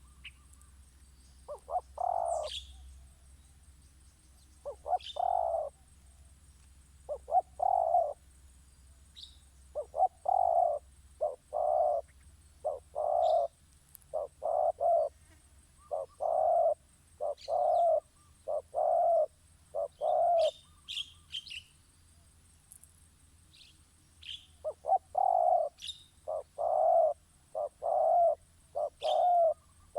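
A dove cooing: short low notes given in quick clusters of two to four, over and over, with a pause of a few seconds past the middle; it is a call used as a lure (pikat) for trapping birds. Brief high chirps from another bird come in between.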